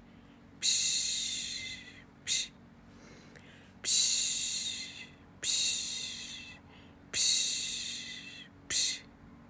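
A person's voice making rhythmic 'psh' shushing sounds to soothe a baby, a hiss about every second and a half. Most are long hisses that start sharply and fade out, and a couple are short.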